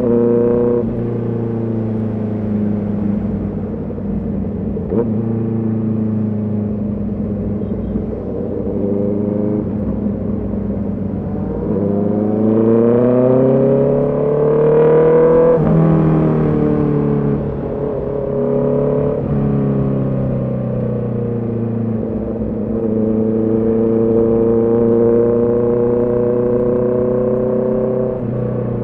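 Honda CB650R's inline-four engine and exhaust running under way. It holds fairly steady at first, climbs strongly in pitch from about twelve seconds in, then drops suddenly as the rider shifts gear, and climbs slowly again near the end.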